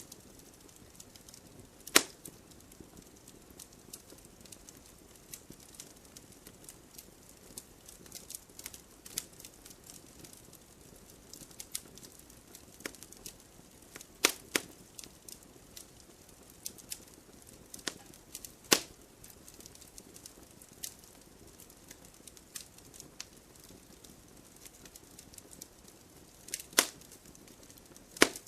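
Wood fire in a fireplace crackling steadily, with scattered small snaps and several sharp, loud pops spread through.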